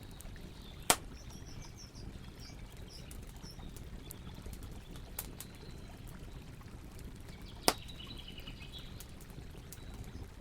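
Campfire burning: a steady low rumble of wood fire with scattered sharp crackles and pops, two loud pops about a second in and near eight seconds in. Faint bird chirps sound twice in the background.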